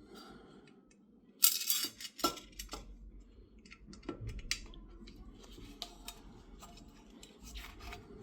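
A short rattling burst about a second and a half in, followed by several sharp clicks and scattered light taps of small hard objects being handled.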